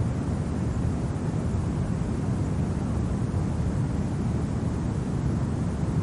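Steady, low rumbling wind noise of a winter ambience, unchanging, with no crackles or other separate sounds.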